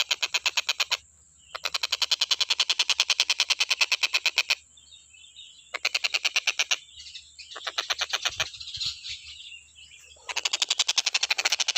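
Tengkek buto kingfisher calling in fast rattling trills of evenly repeated notes, about ten a second. The trills come in several bouts separated by brief pauses.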